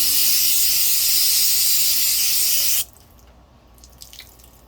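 Aerosol can of 3M brake cleaner spraying into a hydraulic cylinder, a loud steady hiss that cuts off suddenly about three seconds in. A few faint ticks follow.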